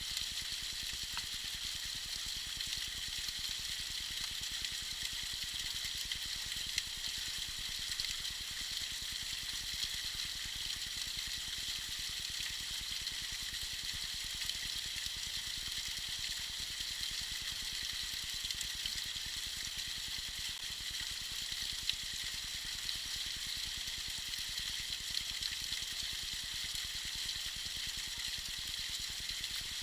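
Small icy waterfall splashing and trickling in a steady, even hiss.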